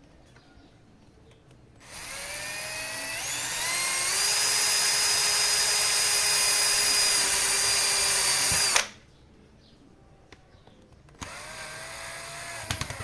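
Cordless drill-driver running, probably driving screws. Its motor whine climbs in pitch over about two seconds, holds steady for about five seconds and then cuts off abruptly. A second, shorter and quieter run follows near the end.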